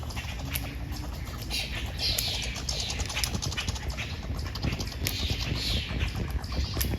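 Red squirrels chattering: a run of high-pitched, rapid calls, each falling in pitch, repeated about once a second, over a low rumble.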